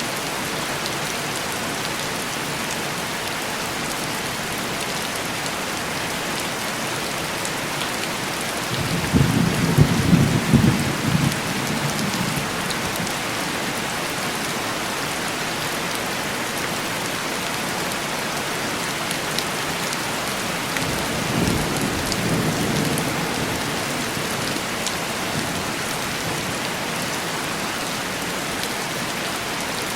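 Heavy rain pattering steadily on window glass, with two rolls of thunder: a louder rumble about nine seconds in that lasts a few seconds, and a softer one a little past twenty seconds.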